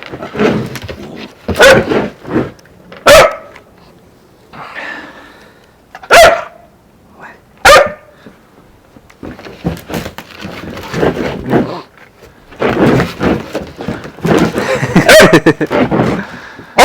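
Newfoundland puppy barking: about half a dozen sharp, single barks one to three seconds apart, then a denser run of barking and vocalizing in the last few seconds.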